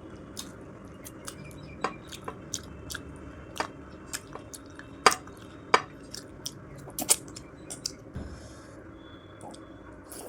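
Close-miked eating: chewing with irregular wet mouth clicks and smacks, the loudest a few about five and seven seconds in.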